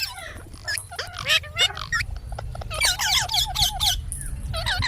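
Indian ringneck parakeet chattering and whistling: a string of short calls that bend up and down in pitch, with a quick run of short repeated notes about three seconds in.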